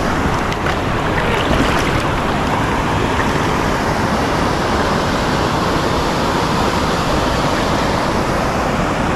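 Steady rush of flowing creek water, a loud, even noise without a break.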